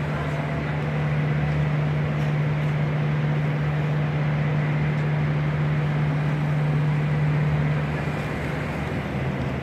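Steady engine drone of a running vehicle, with road or motor noise underneath; its pitch drops a little about eight seconds in, as the engine slows.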